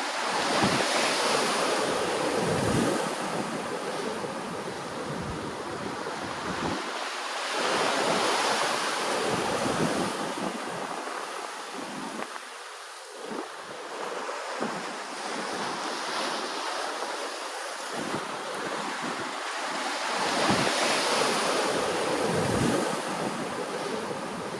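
Ocean waves washing in and drawing back, swelling louder three times over a constant wash, with wind buffeting the microphone.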